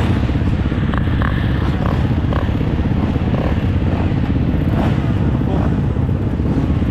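Motocross dirt bike running steadily, a dense low rumble that holds at one level throughout.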